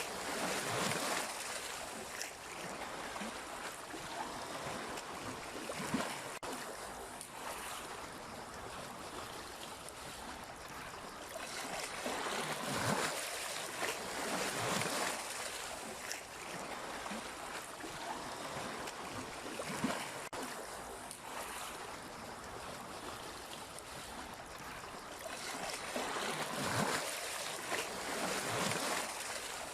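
Sea waves washing in, a steady hiss of water that swells and falls back in irregular surges every few seconds.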